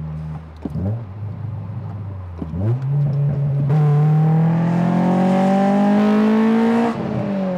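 Honda S2000's four-cylinder engine accelerating hard in gear, heard from the open-top cabin. After a steady low run, the engine note steps up about two and a half seconds in, climbs steadily in pitch for about three seconds as the revs rise, then drops suddenly near the end.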